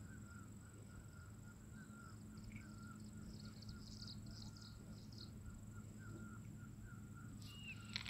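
Faint distant birds calling: a short chirp repeated about twice a second throughout, with a burst of high twittering in the middle, over a steady low hum.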